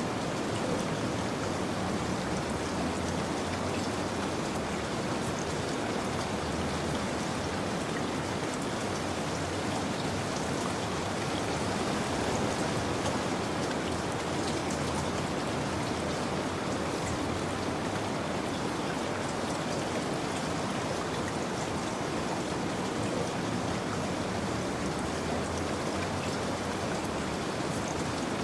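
Steady rain falling, an even hiss of many drops with fine patter of individual raindrops.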